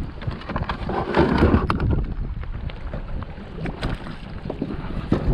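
Wind rumbling on the microphone, louder in a gust about a second in, with scattered light knocks and clicks of gear handled on a kayak.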